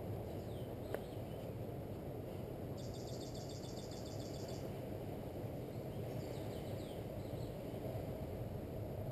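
Small birds calling over a steady low outdoor rumble: short curved chirps near the start and again about six seconds in, and one rapid, evenly pulsed trill lasting a second and a half about three seconds in.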